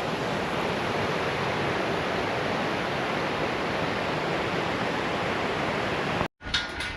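Steady rush of fast-flowing river water, a constant even roar that cuts off abruptly about six seconds in.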